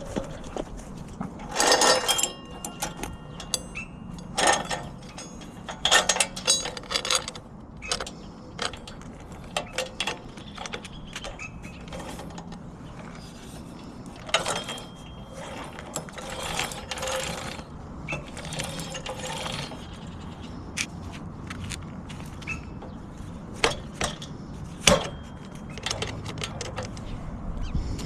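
Hand tools and metal parts being handled on a mini bike: irregular clicks, clanks and short scrapes, with no engine running.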